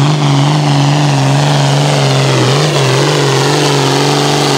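Hot farm class John Deere pulling tractor's diesel engine running flat out under load on a pull. The pitch is held high and steady, with a brief dip about halfway through.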